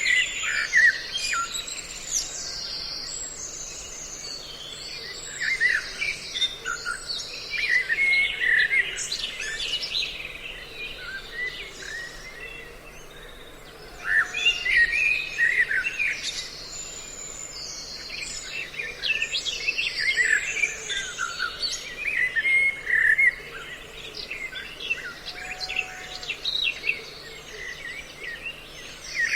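A bird-lure recording mixing the calls of several songbirds: a dense chorus of overlapping high chirps and whistles that swells and thins every few seconds, over a faint steady low hum.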